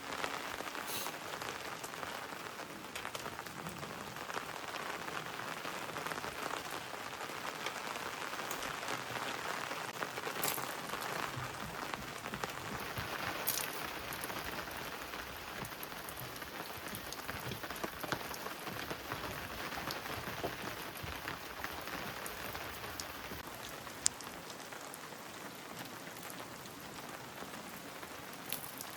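Heavy rain falling, a dense steady patter of drops with a few louder drips and one sharp tap near the end.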